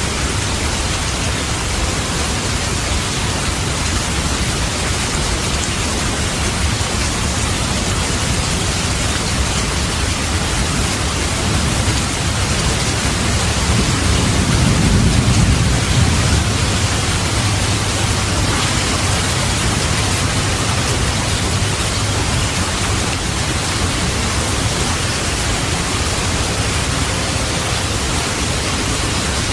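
Steady, heavy rain, with a low rumble of distant thunder swelling and fading about halfway through.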